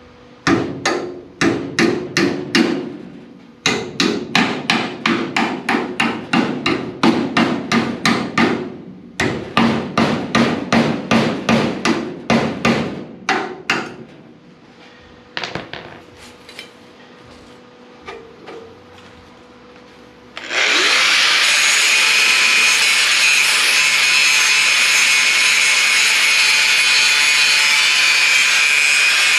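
Runs of hammer blows, about two to three a second, in three bursts over the first fourteen seconds, worked against the old door-hinge hardware of a 1941 Lincoln Zephyr body. After a short pause with a few odd knocks, a power tool starts about twenty seconds in and runs steadily with a high whine.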